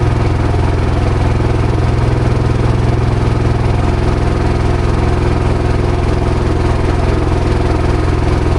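Motorboat engine running at a steady speed: a constant low engine drone that does not change in pitch or level.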